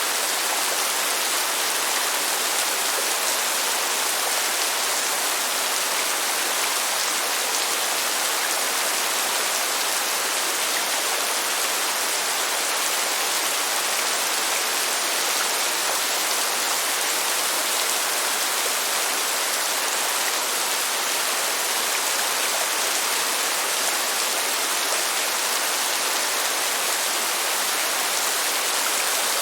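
Steady rain falling: an even, unbroken hiss with no thunder and no single drops standing out.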